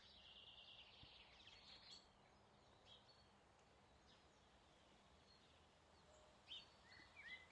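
Near silence: faint outdoor ambience with a few scattered bird chirps, a little more frequent near the end.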